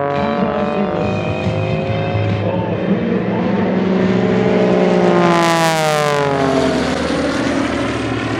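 Piston engine and propeller of a Pitts aerobatic biplane flying past, the drone building to its loudest about five and a half seconds in, then dropping in pitch as it goes by.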